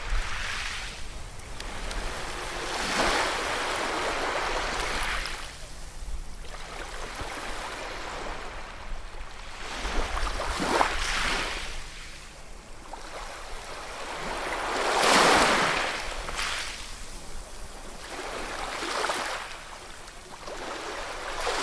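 Ocean waves breaking and washing up the shore: a rushing surf that swells and falls away every few seconds, the biggest wave about fifteen seconds in.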